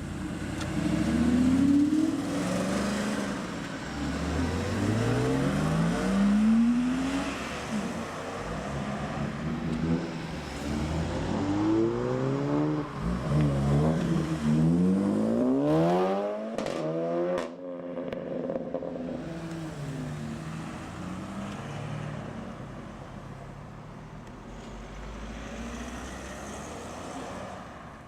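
Audi cars accelerating away one after another, their engine notes rising as they rev up through the gears. There is a quick cluster of sharp cracks just past the middle, and the sound fades toward the end.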